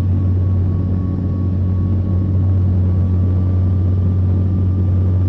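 An engine running steadily: a loud, even low drone at one pitch that does not rise or fall.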